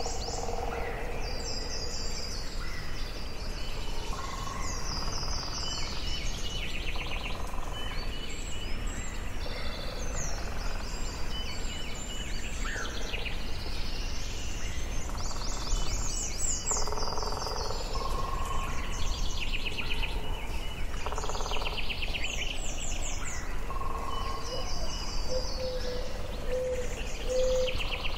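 Several birds singing and calling in a forest, with repeated high trilled phrases and lower whistled notes answering one another, over a steady low background rumble.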